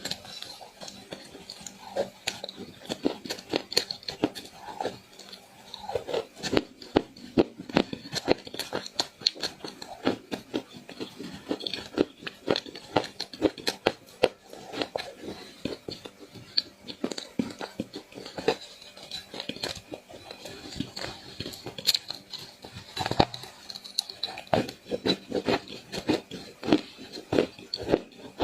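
Dry clay being crushed and crumbled, a continuous run of sharp, irregular crunches and crackles.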